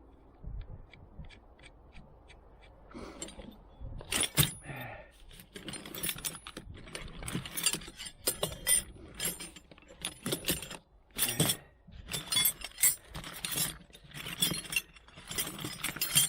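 Hard objects clinking and clattering in irregular sharp knocks: a few faint ticks at first, then busier and louder from about four seconds in.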